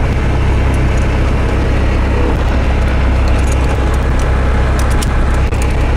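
Cessna 172's engine and propeller droning steadily, heard inside the cabin.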